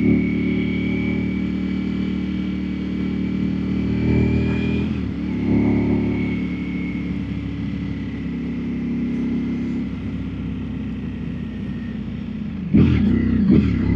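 Naked superbike's engine running under way, steady with a brief break in the note about five seconds in, as at a gear change. Near the end the revs rise and fall quickly several times.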